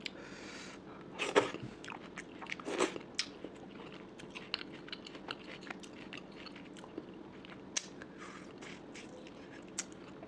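Close-miked eating: chewing and biting with many small wet clicks and a few louder crunches, the first two of them about a second and a half apart.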